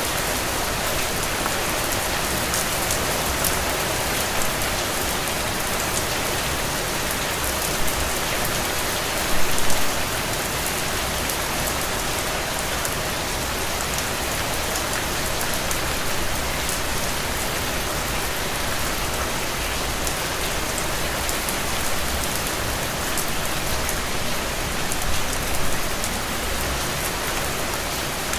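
Heavy, steady rain falling on open ground and puddles, an even hiss of many drops. It briefly grows louder about nine seconds in, and again a few seconds before the end.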